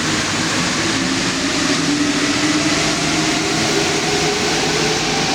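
Santiago Metro NS-16 rubber-tyred train running at the platform, a steady loud rumble with a wavering motor whine.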